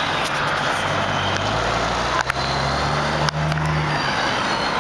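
Truck engines idling with a steady low hum under a broad rushing noise, and two sharp clicks about two and three seconds in.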